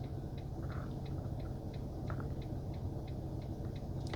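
Steady low hum of a car cabin, with faint regular ticking, about three ticks a second.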